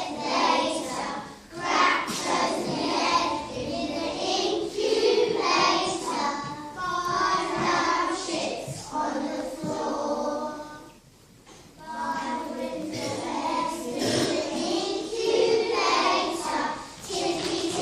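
A group of children singing together, with a short break about eleven seconds in.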